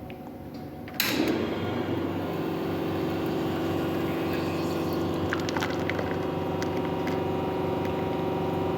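Espresso machine's water pump switching on suddenly about a second in and running with a steady buzzing hum, with liquid flowing.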